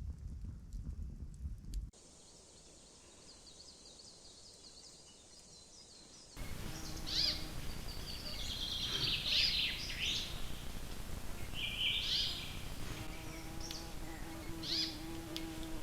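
Songbirds chirping and trilling in woodland, after a short stretch of low rumbling noise at the start. A steady low buzz joins in near the end.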